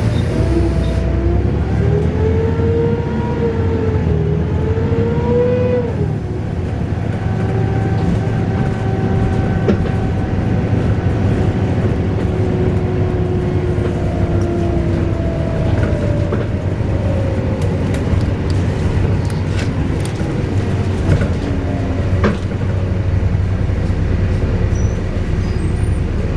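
Volvo B7RLE single-deck bus running, with a loud wailing whine over the low engine rumble. The wail wavers up and down in pitch for the first few seconds, drops away around six seconds in, then returns as a steadier tone that slowly falls.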